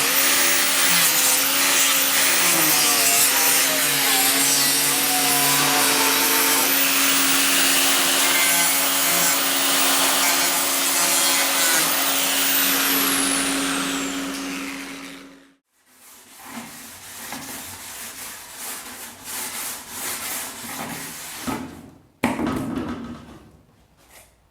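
Handheld power tool running under load on a fiberglass seat unit, its pitch wavering as it works, then winding down and stopping about fifteen seconds in. Quieter, uneven rubbing and scraping follow, with a sharp knock near the end.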